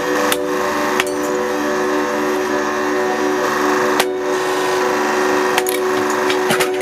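Hydraulic press motor and pump running with a steady hum while a motorcycle helmet is crushed, its shell giving several sharp cracks.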